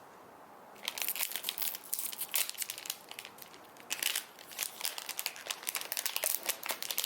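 Plastic candy wrapper crinkling and tearing as a gummy packet is opened by hand: quiet at first, then steady rapid crackling from about a second in.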